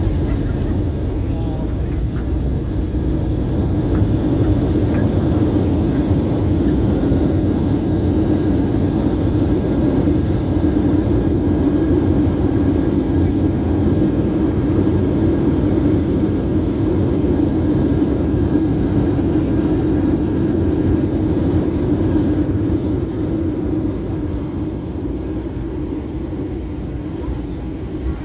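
SunExpress airliner's jet engines and airflow, a steady loud rumble that swells a little and then eases off over the last few seconds.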